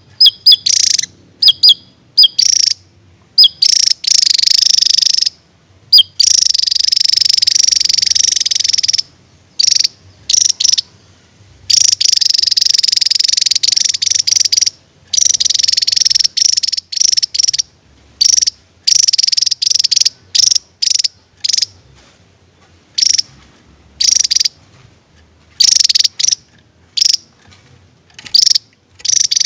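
Javan tesia singing its rapid, high-pitched 'tembakan' bursts: long stretches of fast trilling song of up to about three seconds, broken up by short, sharp notes and brief pauses.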